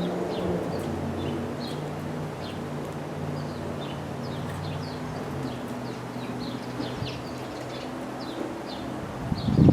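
Small songbirds chirping over and over in short, falling chirps, over a steady low hum. A loud knock and rustle comes near the end.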